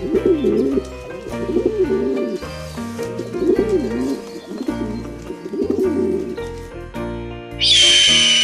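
A bird giving four low, wavering calls, each under a second long, over background music. Near the end a new high, steady whistling tone comes in.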